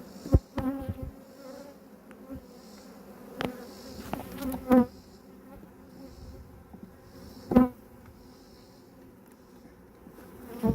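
Honeybees buzzing around an open hive, a steady hum, broken by a few sharp knocks, the loudest about half a second in and again about seven and a half seconds in.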